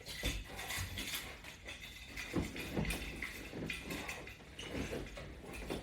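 Faint, irregular soft knocks and rustling of a person moving on the floor while exercising.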